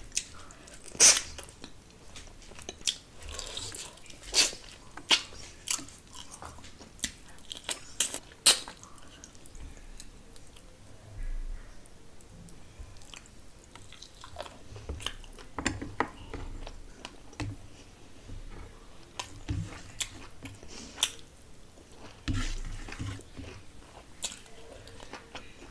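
Close-up chewing and eating sounds of a mouthful of rice and fish: wet mouth smacks and short, sharp clicks and crunches coming irregularly, several a second at times, with short gaps between.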